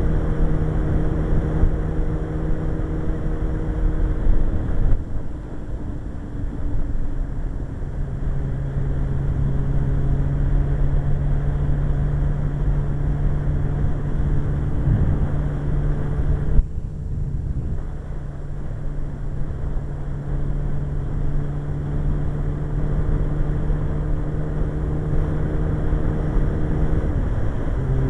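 Suzuki GSX-R1100 inline-four engine running at road speed with steady wind rush. The engine note shifts pitch a few times and dips briefly about two-thirds of the way through.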